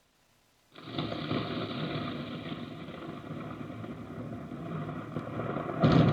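Thunderstorm rain and wind noise on an outdoor microphone, cutting in suddenly less than a second in as a steady rushing hiss, with a louder surge near the end.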